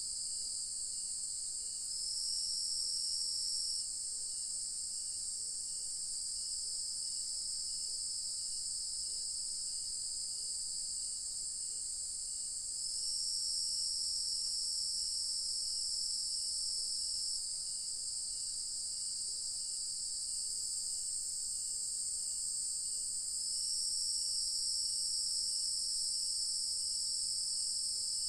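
Evening insect chorus of crickets: a steady high-pitched trilling that swells louder for a few seconds three times, about two seconds in, around thirteen seconds in, and from about twenty-three seconds on. A fainter, regularly repeating chirp runs beneath it.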